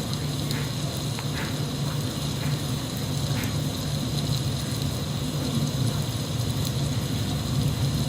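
Steady rain-sound background: an even hiss of falling rain over a low rumble, with a few faint drip-like ticks.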